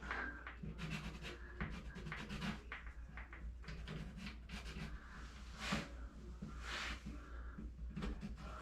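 Drywall touch-up: a hand tool scraping and rubbing over the wall in short, irregular strokes, with two longer sweeps about six and seven seconds in.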